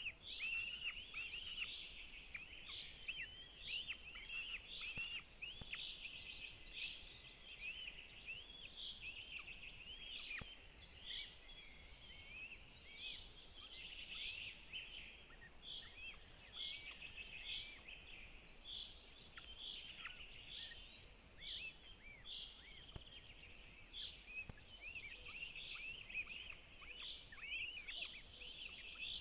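Birds calling: a dense, steady stream of short, high-pitched chirps, many overlapping.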